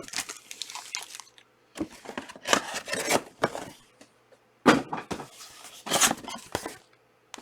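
Trading card packs and cellophane wrappers being handled and torn open: irregular crinkling and rustling with a few sharp crackles and brief pauses between them.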